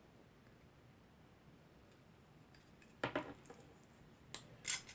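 Faint handling sounds from terminating Cat6 network cable: a few small clicks and rustles of wires and small tools, a cluster about three seconds in and another near the end.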